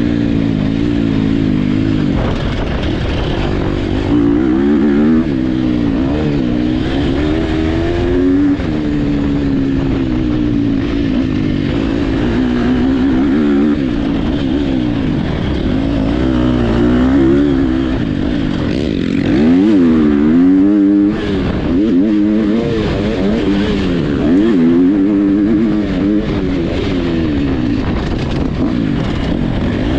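Motocross dirt bike engines racing, revving hard with the pitch rising and falling over and over as the throttle opens, closes and gears change.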